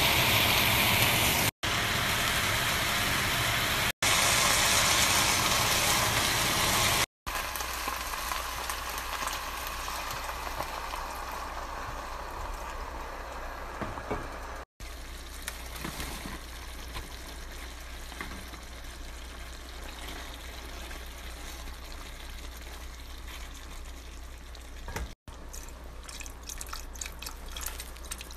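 Chunks of beef searing in a hot pot, a steady sizzle that is loudest in the first seven seconds and broken by short gaps at the cuts. After that comes a quieter sizzle and bubbling as wine cooks down. Near the end, stock is poured from a carton into the stew with some splashing.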